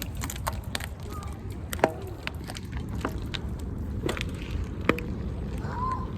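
Footsteps crunching on fallen acorns and twigs: scattered sharp cracks and snaps, the loudest about two seconds in, over a low steady rumble.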